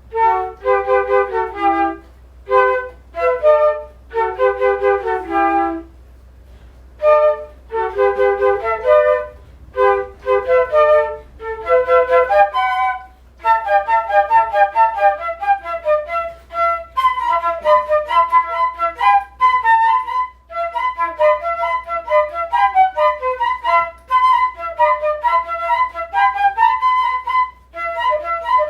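A flute-like woodwind instrument playing a melody. It plays short phrases separated by pauses at first, then from about halfway a quicker, higher line of notes with few breaks. A steady low hum runs underneath.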